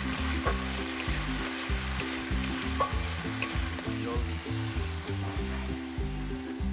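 Spiced mustard-and-poppy-seed paste sizzling in hot oil in a metal kadai as a flat metal spatula stirs and scrapes it, with scattered clicks of the spatula against the pan.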